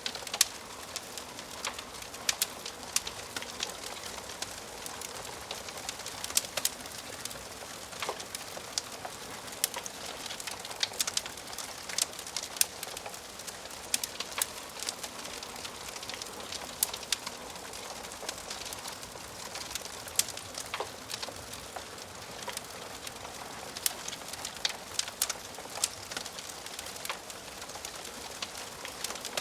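Wood fire crackling in a fireplace: irregular sharp pops and snaps over a steady soft hiss of burning logs.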